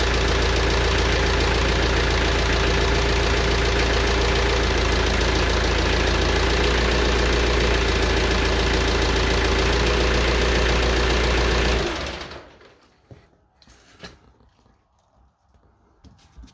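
McCormick X1.45 compact tractor's diesel engine idling steadily, then shut off about twelve seconds in, leaving a few faint clicks.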